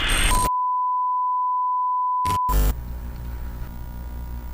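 Edited-in bleep: a single steady pure tone about two seconds long, the kind used to censor a word, starting and stopping abruptly over silence. Quieter background music follows near the end.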